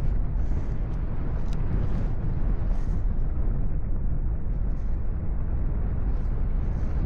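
Steady wind rushing over the microphone in flight under a paraglider, a heavy low rumble with no other distinct sound.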